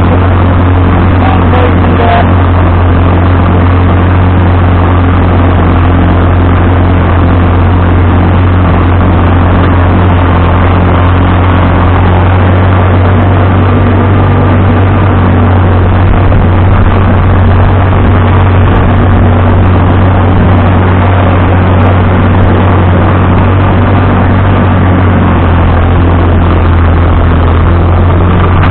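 Vintage farm tractor engine running loud and steady at a constant speed, with a strong low hum.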